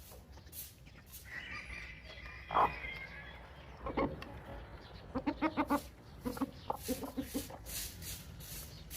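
Chickens clucking: a higher drawn-out call in the first few seconds, then two runs of short, quick clucks in the second half.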